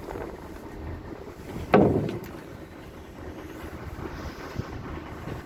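Wind buffeting the microphone over a steady rumble, with one loud thump about two seconds in.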